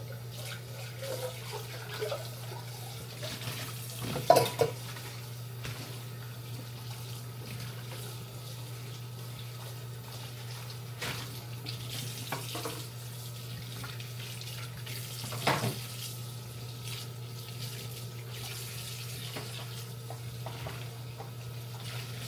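Kitchen faucet running steadily into the sink over a low steady hum, with a few sharp knocks of dishes about four, eleven and fifteen seconds in.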